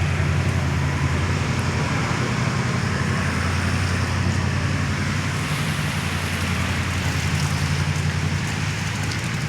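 Steady city street traffic noise: a low engine rumble with a constant hiss over it.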